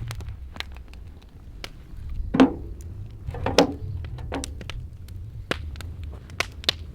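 Campfire crackling, with scattered sharp pops over a steady low rumble, and three louder knocks about two and a half, three and a half and four and a half seconds in.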